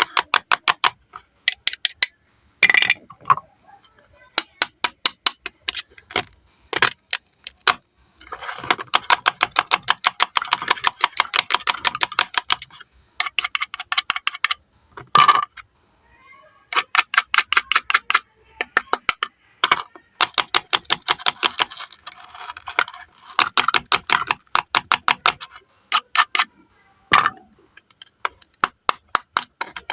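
Velcro-joined toy fruit pieces being cut apart with a toy knife: many fast crackling rips of velcro tearing, each a quick train of clicks, repeated over and over, with a few longer scratchy tears and some brief squeaky tones.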